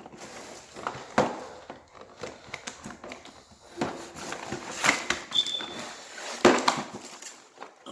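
A toy train set's box and packaging being handled and opened: scattered clicks and knocks with rustling between them.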